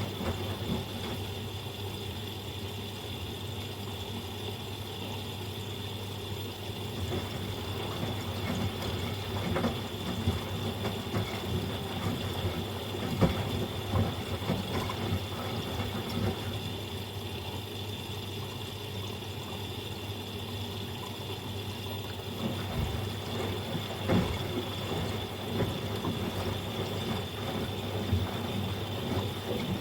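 Miele Professional PW 6065 Vario washing machine in its first rinse: the drum tumbling the wash through water, with irregular sloshes and knocks over a steady low hum and a faint steady high tone. The sloshing eases off twice, for several seconds each time.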